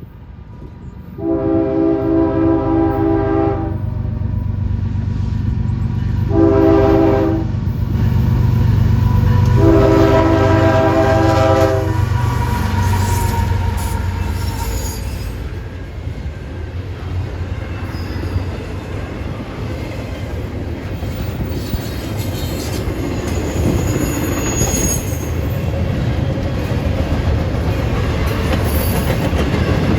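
A diesel freight locomotive's multi-chime horn sounds three times, long, short, long, over the rumble of the engine, then the train rolls past with steady wheel clatter and occasional wheel squeal.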